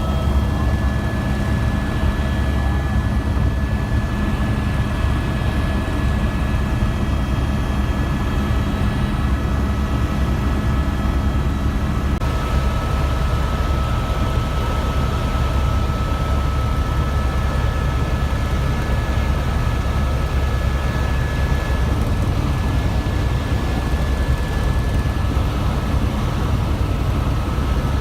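Helicopter in flight: a steady, loud engine and rotor rumble with a constant high-pitched turbine whine over it.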